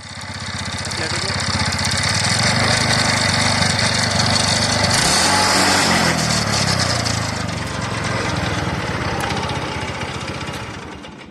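TVS Ntorq scooter's single-cylinder engine running with a loud, harsh mechanical noise, revved up and back down about halfway through. This is its sound before repair, which the mechanic puts down to a failed one-way (starter one-way clutch).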